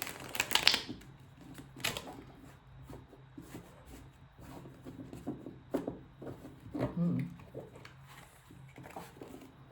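A tarot deck being shuffled and handled by hand: a run of short card slaps and riffles, loudest within the first two seconds.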